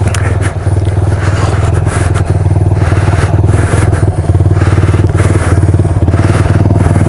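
Dual-sport motorcycle engine idling steadily with an even pulse, its idle freshly set lower. Gusts of wind noise on the microphone come and go over it.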